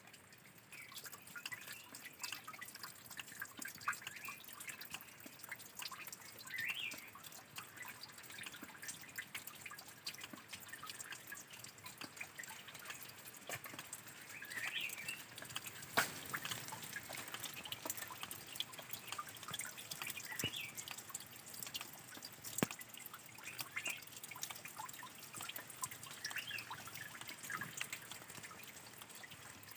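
Spring water dripping and trickling, with many small drips over a steady trickle, and birds chirping briefly now and then.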